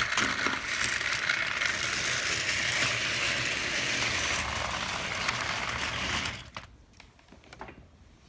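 Battery-powered toy train engine's motor and gears whirring steadily as it runs along the track, stopping about six seconds in.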